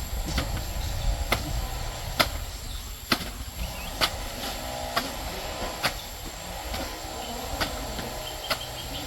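Sharp knocks repeating evenly, a little under once a second, over a steady low rumble, with faint voices in the background.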